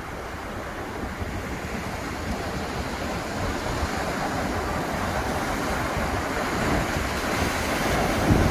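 Ocean surf washing onto a beach, a steady rush of breaking waves that swells gradually louder toward the end.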